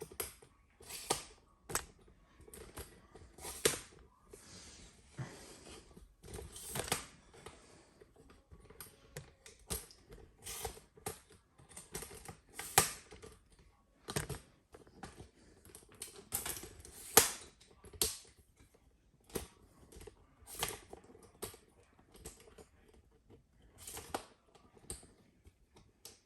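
Irregular clicks, taps and light knocks of things being handled and set down, uneven in spacing and loudness.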